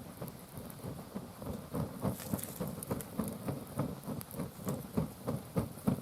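Wood fire burning in an iron fire pit, crackling and popping irregularly several times a second over a low rumble.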